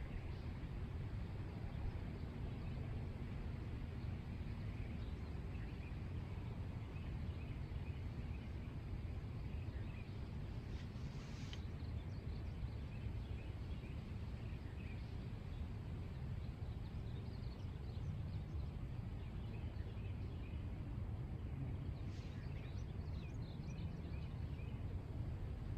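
Outdoor ambience: a low, steady rumble with scattered short bird chirps, busier about eleven seconds in and again a few seconds before the end.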